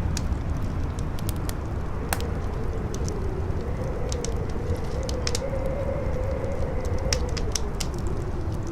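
Campfire crackling with scattered sharp pops over a steady low rush of strong wind. From about two seconds in, a howling wind tone swells and wavers, then fades near the end.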